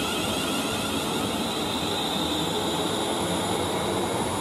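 London Northwestern Class 350 Desiro electric multiple unit passing: a steady rush of wheels on rail with a high electric whine.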